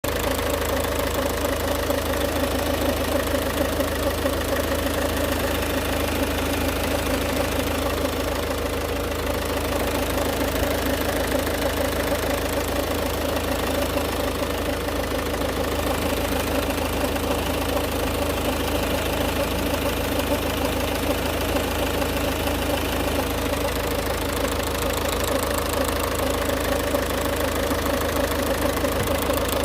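Ford Focus Mk2 1.6 TDCi diesel engine running steadily with a rubbing, grinding noise from around the left engine mount, which the owner suspects comes from the high-pressure fuel pump or the water pump.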